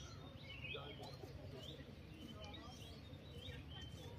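Songbirds chirping faintly: a run of short chirps and quick curling whistled notes, over a steady low background rumble.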